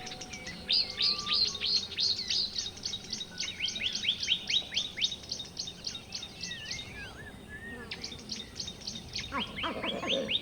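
Birds chirping in long, rapid runs of quick downward-sweeping notes, about four to five a second, with a short pause partway through. A lower-pitched call breaks in near the end.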